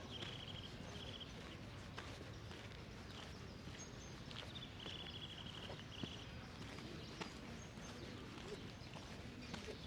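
Outdoor park ambience: a steady low hum with a bird giving short, buzzy trilled chirps a few times, a cluster of them about five seconds in, and scattered footstep ticks on the path.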